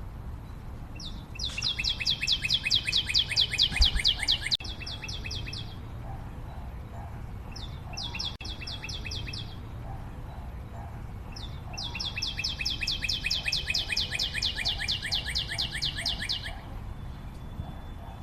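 A bird singing rapid trills of evenly repeated high notes in three bouts: one of about four seconds, a short one in the middle, and a longer one of about five seconds.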